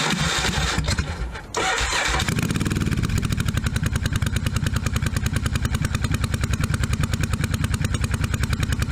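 1982 Yamaha Virago 750's air-cooled V-twin being started: the electric starter cranks for about a second and a half, then the engine catches about two seconds in and settles into a steady, even idle. It is running very rich on freshly rebuilt carburetors, with the air-fuel screws all the way in.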